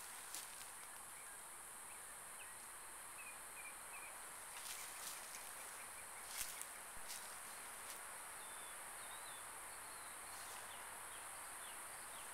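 Faint woodland outdoor ambience: a steady high-pitched insect drone, with a few faint short bird chirps and occasional soft clicks.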